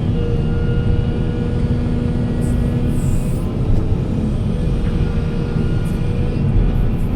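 Heavy diesel machinery engine running steadily under load, a low rumble with a steady whine over it. There are short hissing bursts about two and a half to three and a half seconds in.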